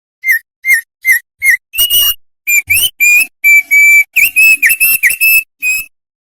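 An opior songbird singing: four short, down-slurred whistled notes, then a quick run of clear, higher whistles that ends abruptly about a second before the end.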